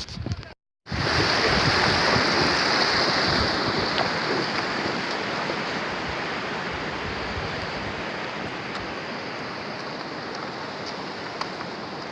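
A steady rushing noise begins after a brief break about a second in, loudest at first and slowly fading.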